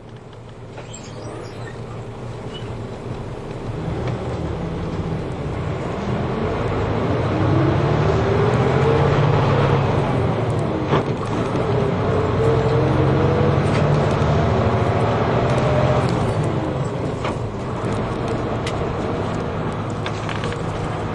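Route bus heard from inside the cabin, its engine and drivetrain pulling away and speeding up. A whine rises in pitch twice, with a brief drop and a click about halfway between the two rises, like a gear change.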